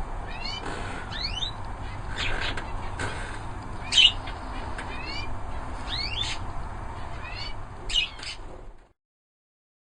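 Canaries calling with short, repeated rising chirps, with two louder calls, one about four seconds in and one near the end.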